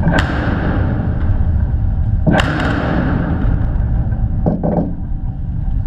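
Blasting charges going off during metro tunnel construction: two sharp cracks about two seconds apart, then a weaker pair near the end, over a heavy continuous rumble.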